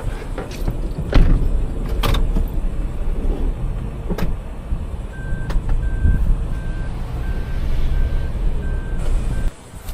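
A motor vehicle running with a heavy low rumble and a few sharp knocks. In the second half a steady electronic beep repeats about twice a second. The rumble cuts off abruptly near the end.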